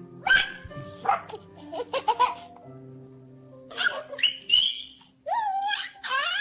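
Baby giggling and squealing in short bursts over soft background music with held notes.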